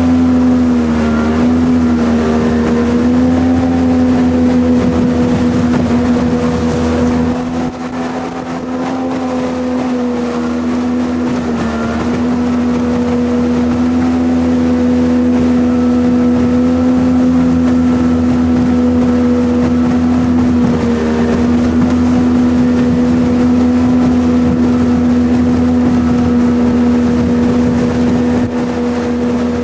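Jet boat engine running at steady speed, a strong even drone whose pitch sags briefly a few times; the level drops for a moment about eight seconds in.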